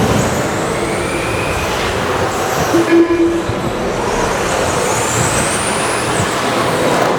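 Electric RC stadium trucks with 13.5-turn brushless motors racing, their motors giving high whines that rise as they accelerate, over a steady rush of noise. A short steady low beep sounds about three seconds in.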